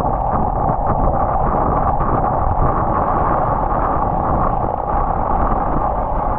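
Steady wind rush and road noise on a bicycle-mounted camera's microphone while riding on wet roads in the rain.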